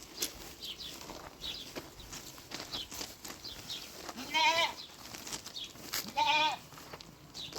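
A goat bleating twice, two quavering calls about a second and a half apart.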